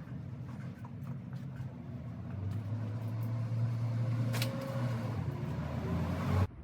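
Bicycle-powered washing machine running: the pedaled bike turns the water tank with a steady low rumble and scattered clicks, and the hum grows stronger about halfway through.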